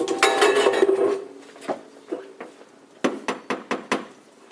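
A door being boarded up: wooden boards clattering into place, then a quick run of about seven hammer knocks near the end.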